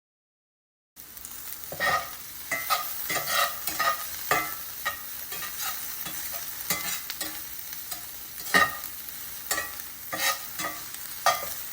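Bell peppers and mushrooms sizzling in a frying pan while a utensil stirs them, knocking and scraping against the pan at an irregular pace. The sound starts suddenly about a second in.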